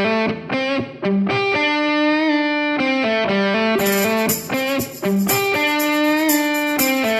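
Instrumental rock music: an electric guitar plays a melody of short picked notes and longer held, slightly bent notes.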